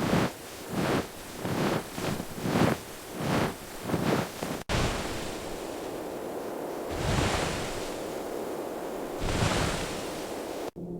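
Wind blowing hard in a blizzard, with a steady rushing on the microphone. The first half has a run of short whooshes, about one every 0.7 s. The second half is a steadier rush that swells twice.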